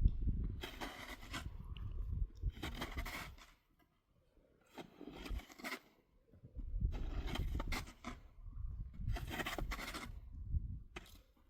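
Snow shovel scraping through snow in repeated rough strokes, one every second or two, with a short pause partway through.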